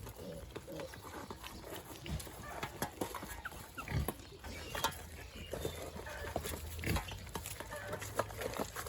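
Pigs grunting in short irregular bursts, with scattered clicks and knocks. A low steady hum comes in about halfway.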